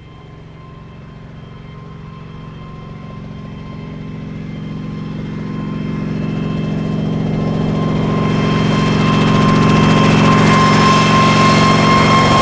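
Kamov Ka-26 helicopter approaching, its twin radial piston engines and coaxial rotors growing steadily louder with an even, unchanging pitch.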